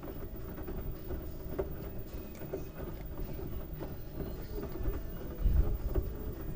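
LG washing machine running a load of wet towels: a steady low rumble from the turning drum, with scattered knocks and a heavier thump about five and a half seconds in.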